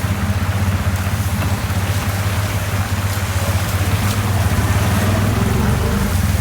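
Heavy rain falling steadily over a loud, continuous low rumble.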